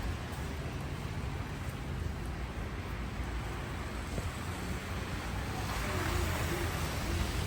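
Outdoor street ambience in falling snow: a steady low rumble with a hiss that grows louder about six seconds in.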